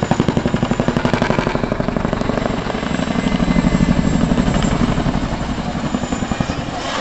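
Boeing CH-47 Chinook tandem-rotor helicopter in display flight, its rotor blades making a rapid, rhythmic slapping beat that swells louder about halfway through as it manoeuvres.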